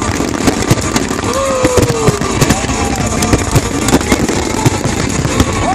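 Large fireworks display: a continuous rapid run of bangs and crackling shells, many overlapping, with no pause.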